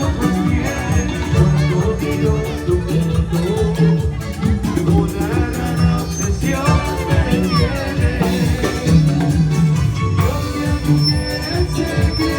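A live band playing Latin-style music, with a voice singing over it.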